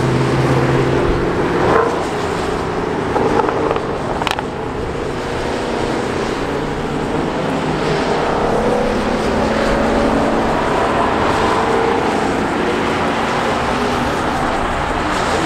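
Engines of Ford Mustangs and other muscle cars driving round a race circuit, their pitch slowly rising and falling as the cars pass and pull out of a corner.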